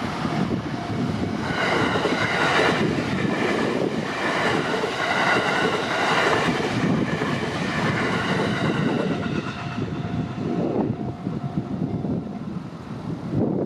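JR Chuo Line electric train running through a level crossing, its wheels and cars rumbling steadily on the track for several seconds and easing somewhat near the end.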